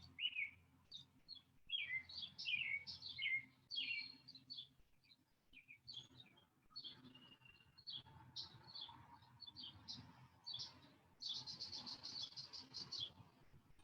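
Wild birds singing faintly: a run of short chirps and whistles from more than one bird, with a fast, rapid trill lasting a couple of seconds near the end.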